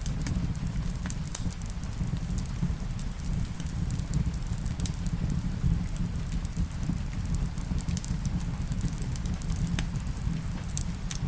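Wood fire crackling in a fireplace, with frequent sharp pops and clicks over a steady low rumble, mixed with a soft hiss of rain.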